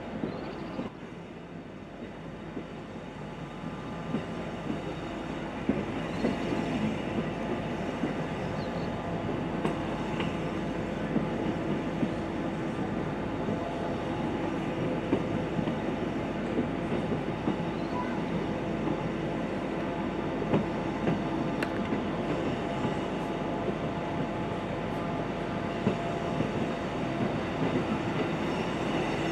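Electric train running along, heard from inside the carriage: a steady rolling noise of wheels on rails with a steady hum and scattered clicks. It gets louder a few seconds in, then holds steady.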